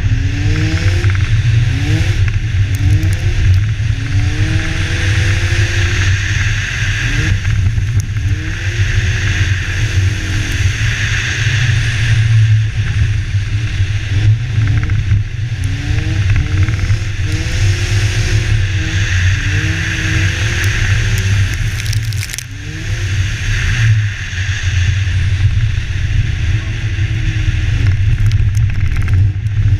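BMW car engine revving up and down over and over as the car drifts sideways on snow-covered ice, each rev rising and falling in pitch within a second or two. Under it, a steady low rumble and a loud rush of wind on the microphone.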